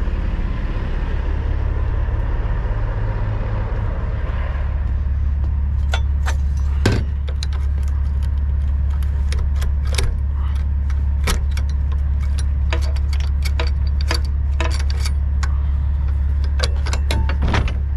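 Diesel engine idling with a steady low hum. From about five seconds in it is joined by many irregular sharp clicks and metallic rattles.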